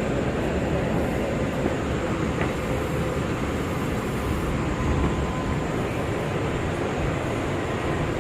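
Bombardier R179 subway car running at speed between stations: a steady rumble of wheels on rail, heard from inside the car.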